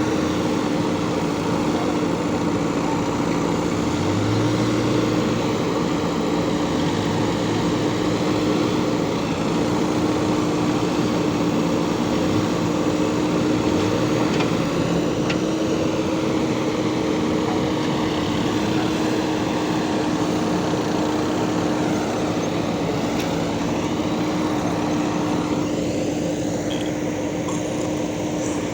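Backhoe loader diesel engine running steadily with a constant hum.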